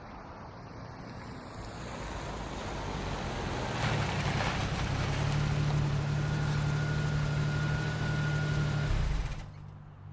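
Car driving off: engine and road noise build over the first few seconds into a steady engine drone, joined later by a faint high whine, then cut off abruptly near the end.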